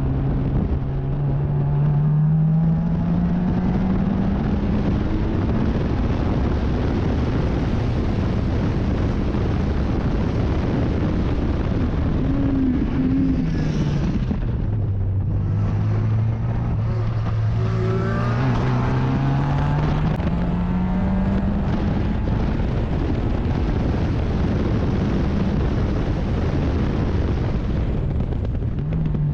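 Race car engine heard from on board at speed: it pulls up in pitch, drops low with a couple of quick revs near the middle as the car slows for a corner, then climbs again and holds steady, with wind rushing over the microphone throughout.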